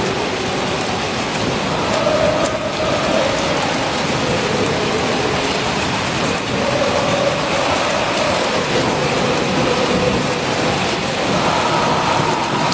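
Torrential rain pouring down steadily, a dense, even hiss of heavy rain on surfaces.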